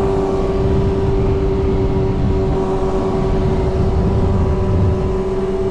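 Sport motorcycle engine holding a steady drone at cruising speed, with wind rumble on the microphone.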